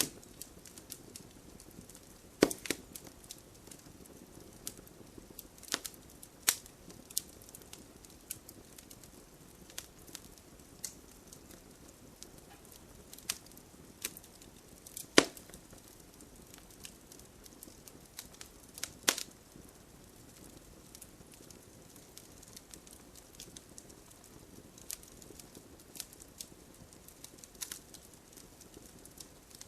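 Campfire burning with a low steady hiss and irregular crackles and sharp pops; the loudest pops come about two and a half seconds in, around the middle and a few seconds later.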